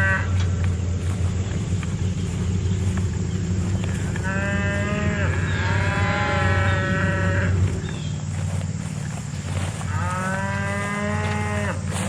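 Dexter cattle mooing: three long, drawn-out calls, about four, six and ten seconds in, over a steady low hum.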